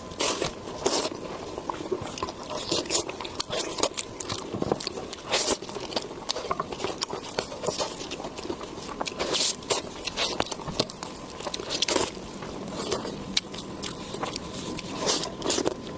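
Close-miked eating sounds: wet chewing, biting and lip smacks in an irregular run of sharp clicks.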